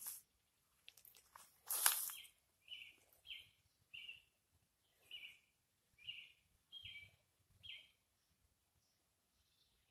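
A bird calling the same short high note over and over, about eight times, roughly once every two-thirds of a second. About two seconds in comes a brief rustling swish, the loudest sound here.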